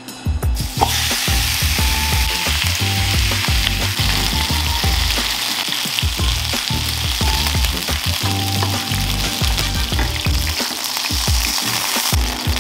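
Chicken pieces sizzling steadily as they fry in hot oil in a frying pan. The sizzle starts about a second in.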